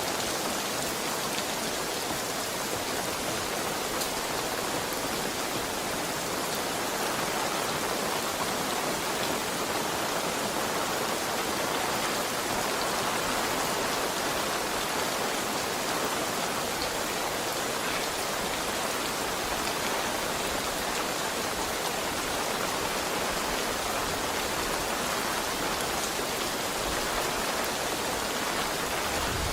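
Heavy rain falling steadily, an even hiss of many drops with no break or change.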